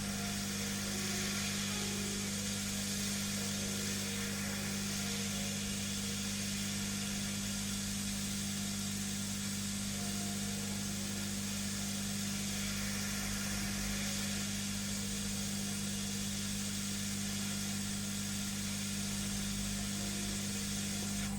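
Hot air rework gun blowing steadily: a constant airy hiss over a steady low hum.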